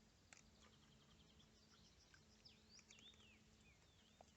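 Near silence: quiet outdoor ambience with a few faint, distant bird chirps.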